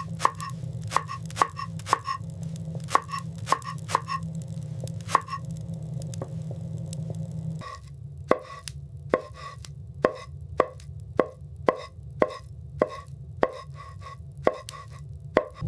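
Repeated sharp chopping strikes of a blade on a wooden surface, roughly two a second, with a pause of a couple of seconds midway. A steady low rumble runs underneath.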